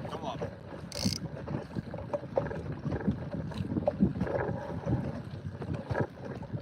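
Wind buffeting the microphone on a small inflatable boat, with water moving against the hull and scattered small knocks and clicks. A short hiss about a second in.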